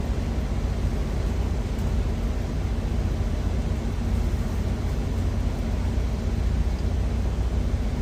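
Steady low drone of a semi truck idling, with an even hiss of oil frying in a pan above it.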